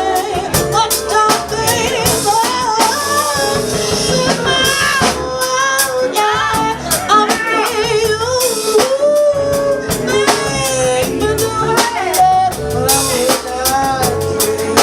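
Live band music: a drum kit keeps the beat under a wavering lead melody that slides and bends in pitch.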